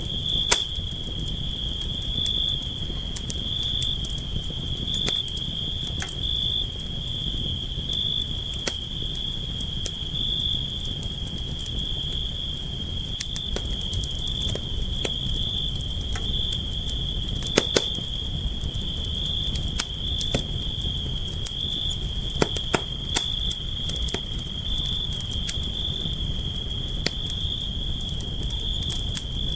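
Campfire burning with a low steady rumble and scattered sharp crackles and pops, a few louder pops past the middle. A steady high insect trill runs underneath.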